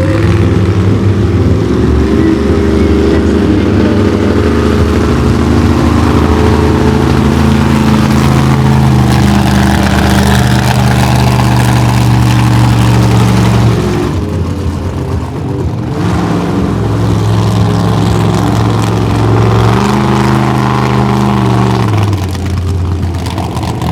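Velociraptor monster truck's engine running at high revs, the pitch rising and falling with the throttle, with two short lifts off the throttle, one about two-thirds of the way in and one near the end.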